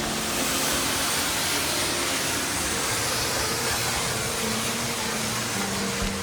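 Steady rushing of a large waterfall, South Falls, a dense even wash of water noise that holds without change.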